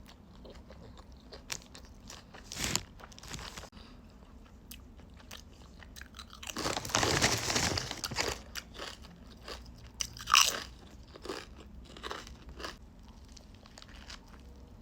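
Close-miked eating: biting into and chewing a thick turkey sandwich with onion and cucumber, with scattered wet chewing clicks and a louder crunching stretch of about two seconds midway.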